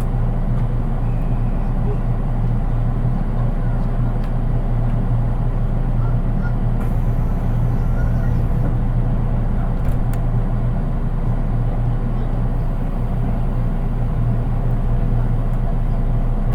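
Running sound heard inside the cabin of a JR East 183 series train's driving trailer car (KuHa 183), a car without motors: a steady low rumble of wheels on rail, with a couple of faint clicks. With no traction motors under the car, there is little motor whine, which the uploader says makes it rather plain.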